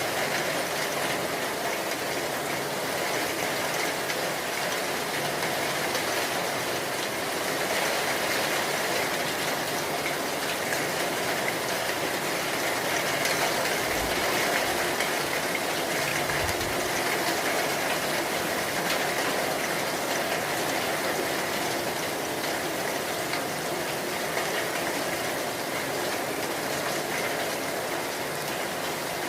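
Heavy rain falling steadily, a dense even hiss that swells slightly around the middle.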